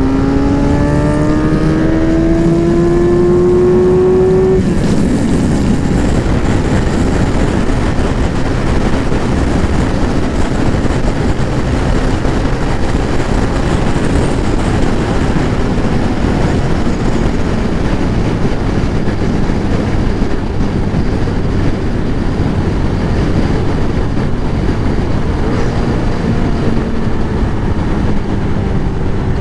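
Kawasaki ZX-11 Ninja's inline-four engine accelerating in gear, its pitch rising for about four seconds before it drops away at a shift. It then cruises steadily under a thick rush of wind and road noise.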